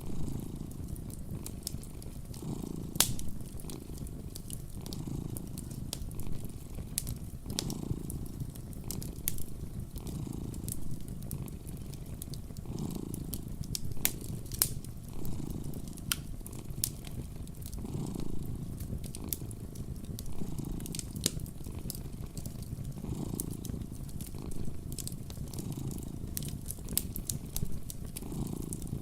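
Cat purring steadily and close, swelling every two to three seconds with each breath. Scattered sharp crackles and pops from a wood fire come over it.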